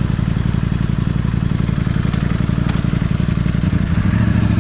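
Ducati motorcycle engine running steadily underway, a low pulsing exhaust note. A little over three and a half seconds in, the engine note changes pitch and grows slightly louder.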